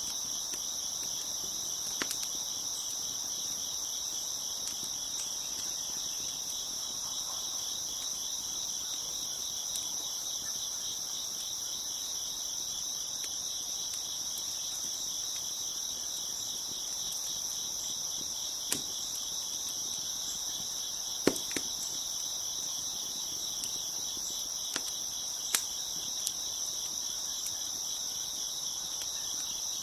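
Steady chorus of crickets chirping, with a few sharp pops and crackles from a wood fire, most of them in the second half.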